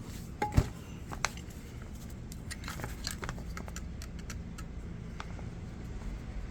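Scattered small clicks and taps of a screwdriver and small Phillips screws being worked loose from a washer motor's carbon-brush holder, with a low steady hum underneath.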